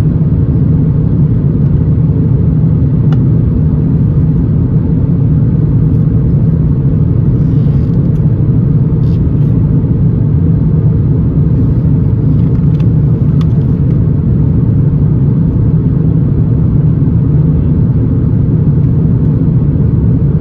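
Steady low rumble inside the cabin of an Airbus A350 in flight: the drone of its Rolls-Royce Trent XWB engines and the airflow at climb power. A few faint small clicks sit over it.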